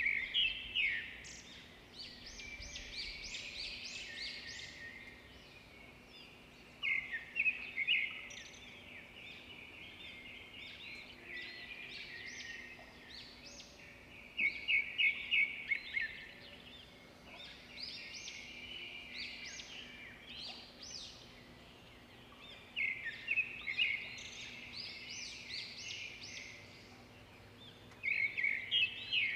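A songbird singing the same quick phrase of rapid high notes about every seven seconds, each phrase about two seconds long, with other birds chirping more softly in between.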